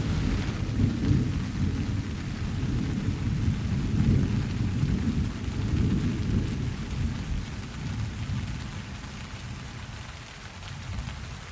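Steady rain with a long, low rolling rumble of thunder that slowly dies away over the second half.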